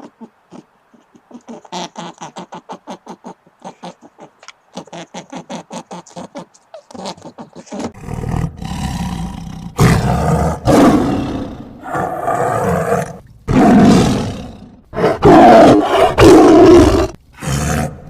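A quick run of short, evenly spaced calls, about six a second, in two bouts, then a big cat roaring loudly: around eight long roars one after another through the second half.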